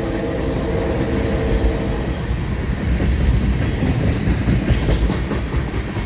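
Florida East Coast Railway freight train passing close by: the diesel-electric locomotives' engine drone, a set of steady tones, fades out about two seconds in. Then freight cars roll past with a rumble and wheel clicks over the rail joints.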